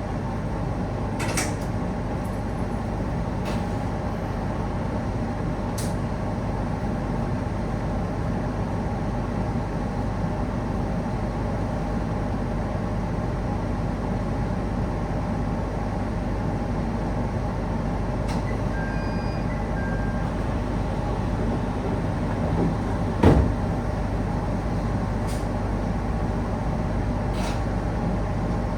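Steady rumble and hum of a train car heard from inside, with a few light clicks and one sharp thump about two-thirds of the way through.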